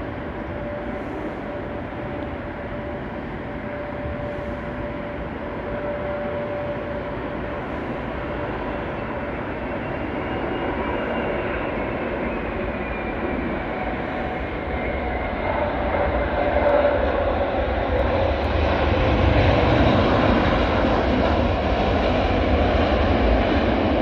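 Jet airliner's engines on landing approach, growing louder as it comes near, with a whine that falls in pitch past the halfway point.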